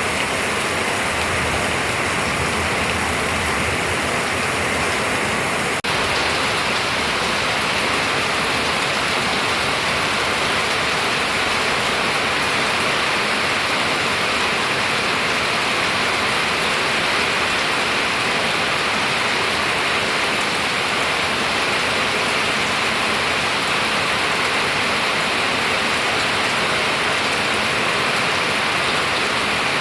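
Steady rain falling, an even hiss. About six seconds in, the sound shifts abruptly and then carries on unchanged.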